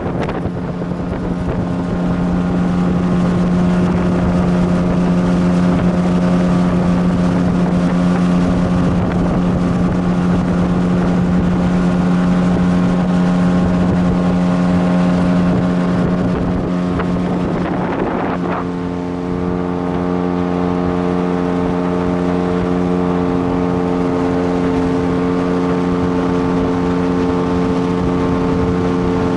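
Motorboat engine running steadily under way, its tone changing about two-thirds of the way through, with some wind on the microphone.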